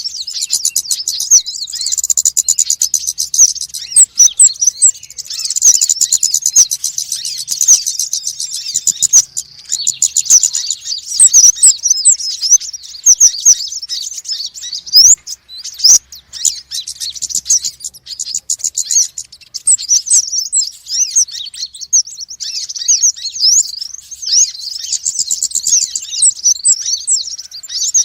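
Konin and wulung, small Indonesian birds sold under the name 'kolibri', chattering noisily. The sound is a dense, rapid stream of high-pitched chirps and twittering trills with only a brief lull about halfway. It is the excited calling used to lure birds of the same kind.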